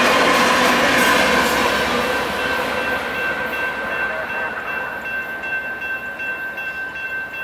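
Rear BNSF diesel locomotives of a freight train rolling past over the crossing with wheel and rail noise that fades away within the first few seconds, leaving the electronic crossing bells ringing steadily.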